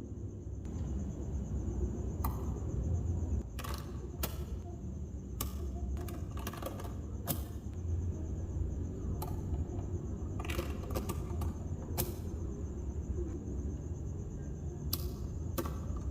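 Small magnetic balls snapping and clicking against one another as they are placed and pulled apart, in irregular sharp clicks, some single and some in quick clusters.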